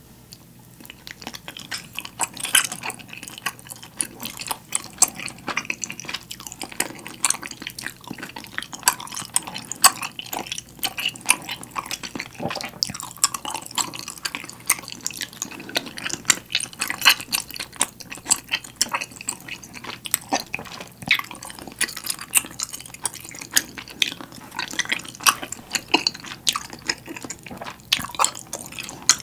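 Close-miked wet chewing and mouth sounds of a person eating soft rice-cake slices and ramen noodles in broth: a dense run of moist clicks and smacks.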